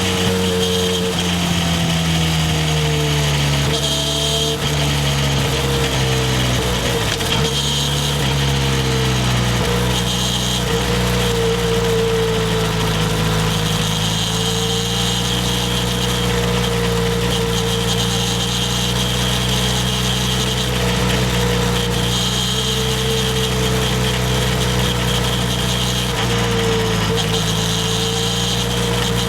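Harley-Davidson X350's parallel-twin engine running steadily while the bike is ridden, its pitch easing down a little about seven seconds in and climbing again near the end, over a steady rushing noise.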